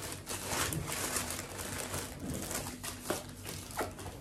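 Plastic parcel packaging rustling and crinkling in irregular bursts as a delivery bag is opened and handled.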